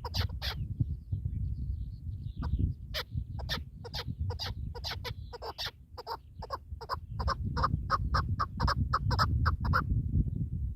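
Partridge calling in a fast run of short, sharp clucking notes, about three to four a second, with a brief pause early on, stopping near the end. A steady low rumble lies underneath.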